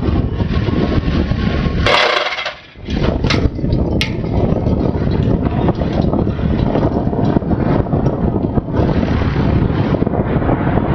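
Steady wind buffeting the microphone over a low rumble. About two seconds in there is a short burst of noise and a brief dropout, followed by a few sharp clicks.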